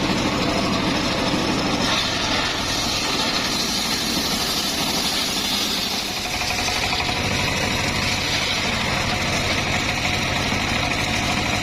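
Engine-driven circular sawmill running steadily. About halfway through, a higher steady tone comes in over the engine.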